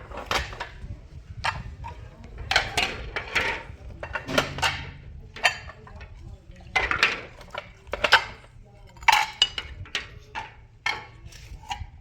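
Kitchen clatter: metal utensils and dishes clinking and knocking against each other in a string of sharp, irregular strikes.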